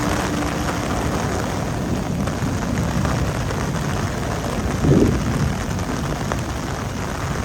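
The Lingampalli–Indore Humsafar Express running on the track: a loud, steady rumble of wheels on rails, with a brief louder swell about five seconds in.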